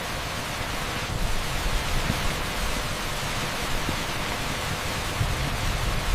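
Torrential rain pouring steadily onto an asphalt street: a dense, even hiss with a low rumble underneath.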